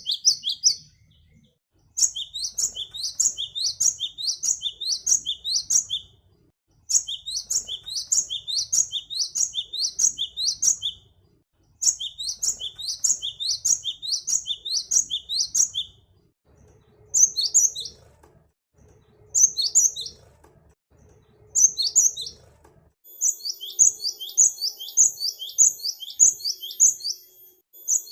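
Cinereous tit (gelatik batu) singing: rapid series of sharp, high repeated notes in phrases of about four seconds, three times over. Then come three short bursts, and a fresh run of notes starts near the end.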